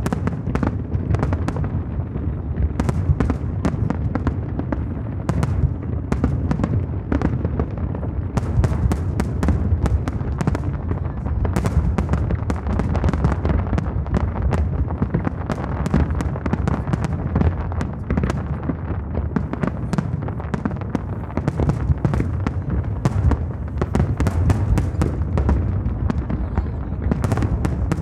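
Aerial fireworks display: a dense, continuous barrage of low booming shell bursts mixed with rapid crackling, with no pause in between.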